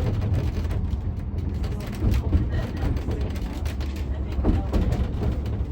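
Steady low rumble of a narrow-gauge railway carriage running along the line, heard from inside the carriage, with some voices in the background.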